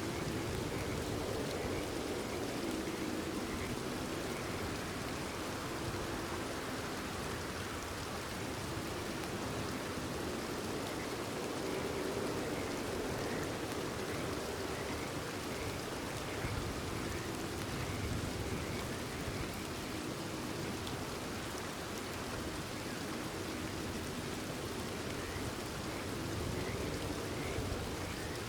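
Steady rain falling, with a chorus of frogs calling underneath.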